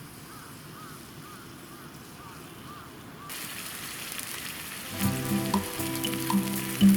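Meat sizzling as it cooks over a campfire: the hiss comes in about halfway through and carries on. Background music joins near the end.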